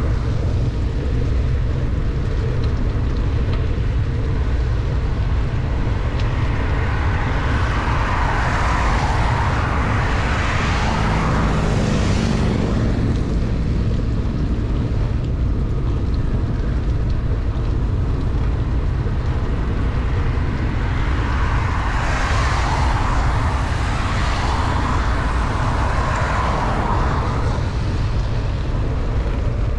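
Steady low wind rumble on the microphone of a bicycle riding in heavy rain, with a constant hiss of wet road. Twice a vehicle passes, a swelling and fading hiss of tyres on the wet road, about a quarter of the way in and again after two-thirds.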